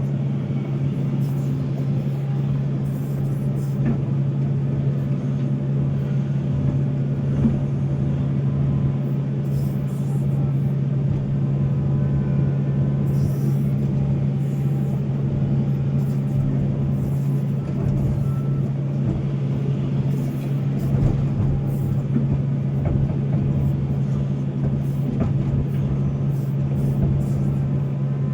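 Volvo excavator's diesel engine running steadily under work, a constant deep drone with scattered faint clicks over it.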